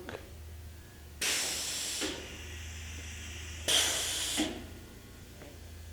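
Pneumatic tailstock quill of a Nardini Logic 175 CNC lathe being cycled by compressed air: two short hisses about two and a half seconds apart, over a steady low hum from the machine.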